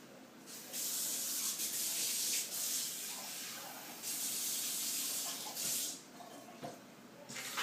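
Water running into a cup to measure out half a cup, a steady hiss in two long spells with a short break, then a brief burst near the end.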